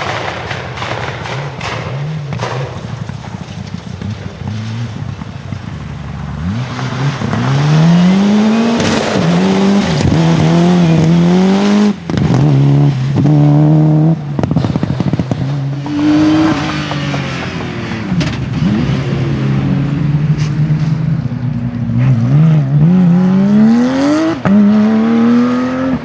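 Rally car engine driven hard on a stage. It is faint at first with a few sharp pops, then gets loud about seven seconds in. The revs climb and drop again and again through gear changes and lifts, and rise once more near the end.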